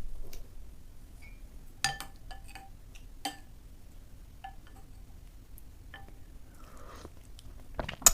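Tableware clinking: a string of light, irregular taps, each ringing briefly with the same pitch. The loudest tap comes near the end.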